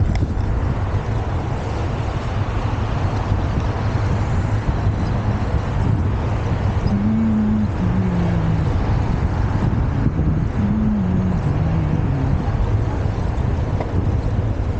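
Steady rumble of wind over the microphone on a moving bicycle, with road traffic. A short, low two-note falling tone sounds twice, about seven and eleven seconds in.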